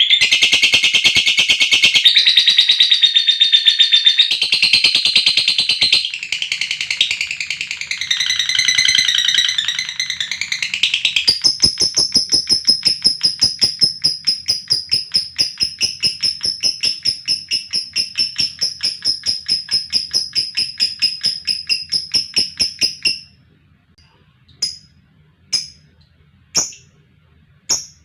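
Lovebird 'ngekek' call: a long, fast, high-pitched chattering trill. After about twenty seconds it gives way to single sharp chirps about once a second.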